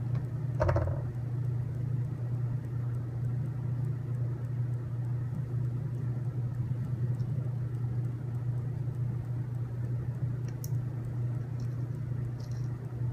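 Steady low background hum, with a knock about a second in and a few light clicks later from small kit parts being handled.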